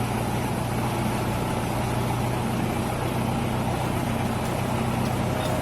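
Steady rush of overflowing floodwater, with a low steady hum underneath.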